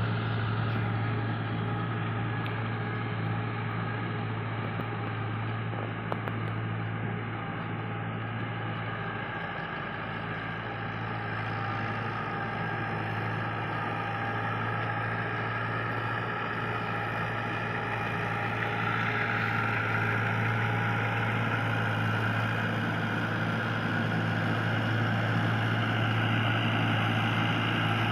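Mahindra DI 575 tractor's diesel engine running steadily at a constant speed, getting a little louder about two-thirds of the way through.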